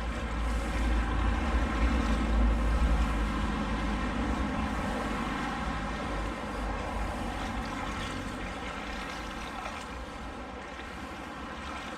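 Swollen, fast-flowing river rushing steadily, with a low rumble that is loudest in the first few seconds and slowly fades.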